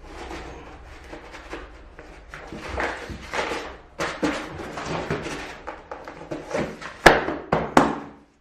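Click-lock cork floor plank being worked into its joint: a few seconds of scraping and rubbing, then two sharp knocks near the end as it is locked down.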